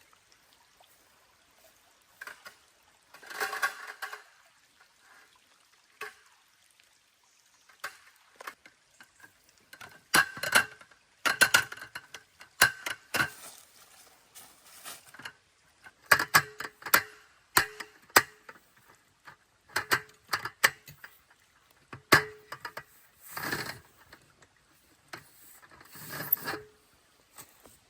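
Irregular knocks, clicks and clatter of objects being handled, some with a brief ringing note, mixed with short rustles; the knocks come thickest in the second half.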